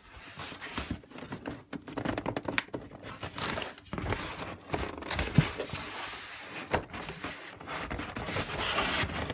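Cardboard box and wrapped packaging rustling and crinkling as parts are worked out of the box, with many small scrapes and clicks and a sharp knock about five seconds in.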